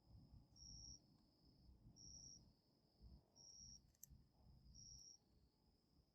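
Faint cricket chirping, one short high chirp about every second and a half, over a faint low rumble, with a single click about four seconds in.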